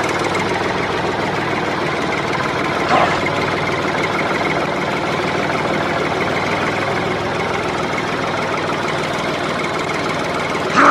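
A DIY miniature tractor's small engine runs steadily with a fast, even pulsing beat.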